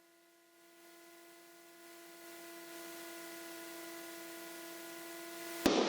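Faint, steady electrical hum with several fixed-pitch overtones on a light aircraft's intercom audio, fading in after a moment of near silence. Near the end a sudden burst of hiss cuts in.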